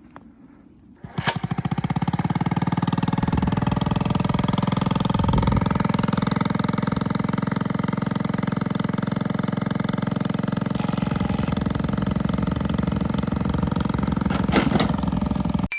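A Dax minibike's small single-cylinder engine starts abruptly about a second in and runs steadily with a fast, even firing rattle. There is a brief clatter near the end, and then the sound cuts off.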